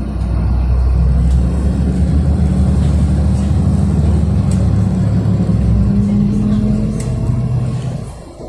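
City bus diesel engine running under load as the bus accelerates away from a stop, heard from inside the bus. It eases off near the end.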